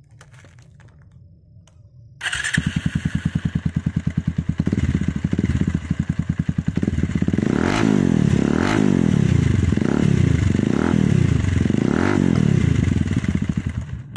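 Bajaj Pulsar 220F's single-cylinder engine, breathing through an aftermarket Akrapovic exhaust with a catalytic converter inside, fires up about two seconds in and idles with an even pulsing beat. In the second half the throttle is blipped four or five times, each rev rising and falling.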